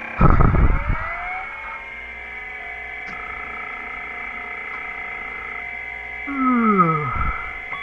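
Electronic tones that sweep upward out of a low thump and settle into a steady high whine, then several pitches slide downward about six seconds in.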